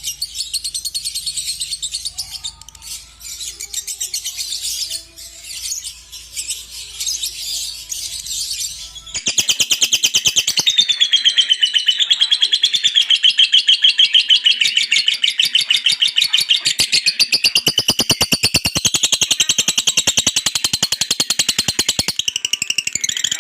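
Lovebird chirping, then about nine seconds in a loud, very fast rattling chatter, the long 'ngekek' call of a lovebird, cuts in suddenly and keeps going.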